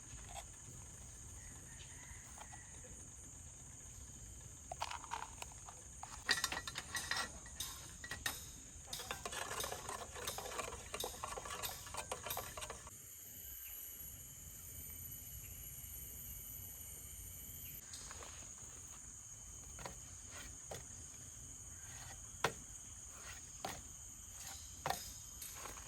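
Steady high-pitched drone of forest insects, with scattered clinks, knocks and a stretch of rattling handling noise about ten seconds in.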